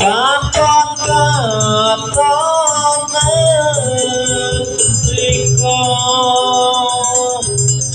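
Jaranan Buto accompaniment music: a singer holding long notes that slide and bend in pitch, over gamelan instruments and a pulsing drum.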